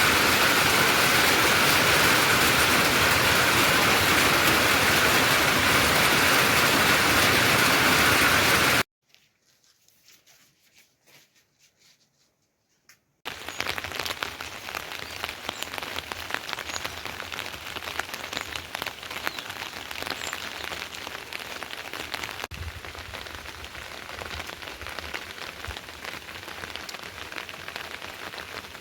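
Heavy rain: a loud, dense downpour that cuts off suddenly about nine seconds in. After a few seconds of near silence, steadier, quieter rainfall follows, with individual drops pattering.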